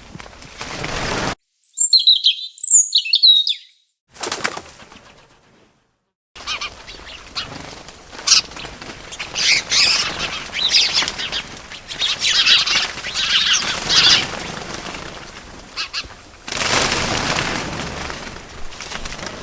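Small birds flapping their wings and chirping: a short flutter, then after a sudden silence two quick pairs of falling chirps, then a long stretch of busy fluttering and chirping.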